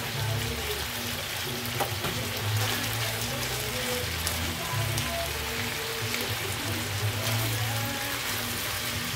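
Chicken, broccoli and sliced peppers sizzling in oil in a large frying pan, a steady hiss.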